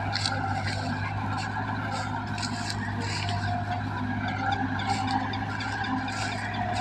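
Massey Ferguson 385 tractor's diesel engine running steadily, a constant low hum with irregular higher rattling over it.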